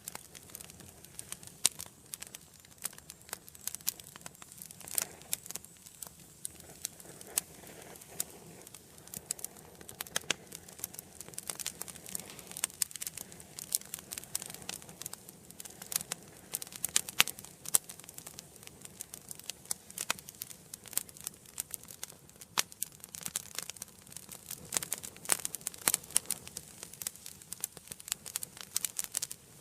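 Wood fire burning in a fireplace: dense, irregular crackles and pops over a soft hiss of flames.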